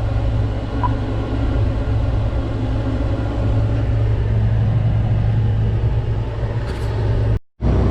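John Deere 9760 combine running with a steady low engine drone while it waits to unload grain. The sound cuts out completely for a moment near the end.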